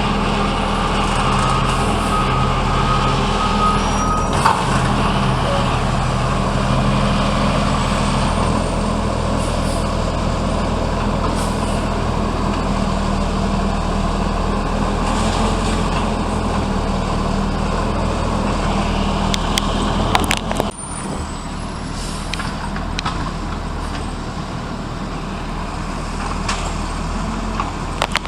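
Garbage truck's diesel engine running steadily, with a few short knocks; the sound drops and changes abruptly about 21 seconds in.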